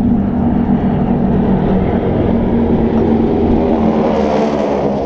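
Aircraft engines of a group flyby droning steadily overhead, with a rushing hiss swelling about four seconds in as they pass.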